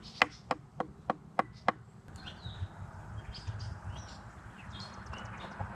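A piece of carving wood struck about six times in quick succession, sharp wooden knocks about three a second, which stop about two seconds in. Faint birds chirp over outdoor ambience after that.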